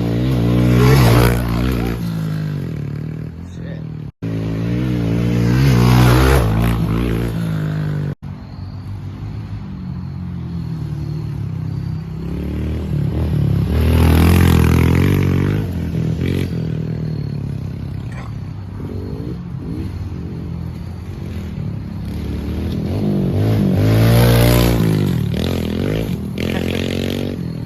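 Dirt-bike engines at high revs passing by several times, each pass rising and falling in pitch and loudness. The sound cuts out briefly twice early on.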